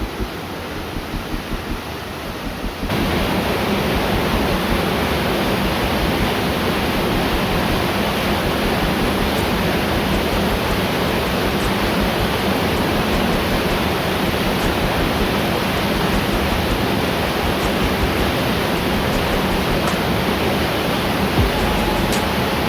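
Steady roar of a waterfall, a dense even rush of falling water. It sets in suddenly about three seconds in, after a quieter stretch.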